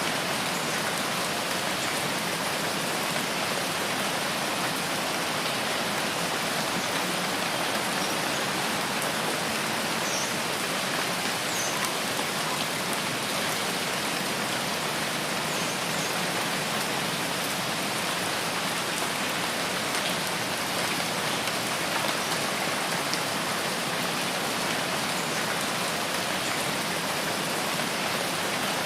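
Steady, even rainfall: a continuous hiss of rain on foliage without pause or change.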